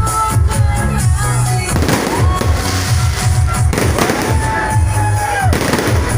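Fireworks going off over loud dance music with a pulsing bass beat; the fireworks fill in with a dense crackling haze from about two seconds in.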